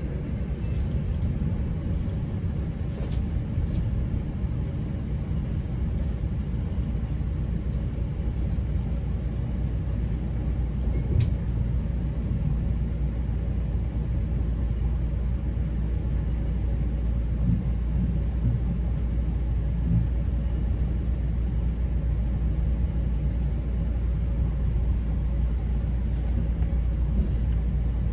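GO Transit commuter train running at speed, heard from inside a passenger coach: a steady low rumble of wheels on the rails. A single click sounds about eleven seconds in.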